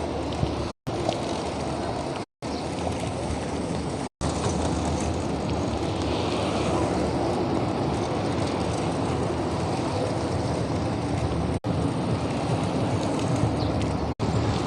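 Steady rumble and hiss of road and traffic noise, cut off completely for a split second several times where clips are joined.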